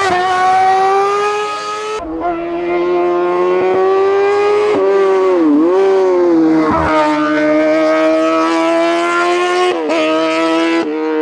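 Racing car engine at high revs under full throttle on a hillclimb, pitch held nearly steady, with a brief drop and climb back about five and a half seconds in as the driver lifts or changes gear. The sound breaks off sharply a couple of times.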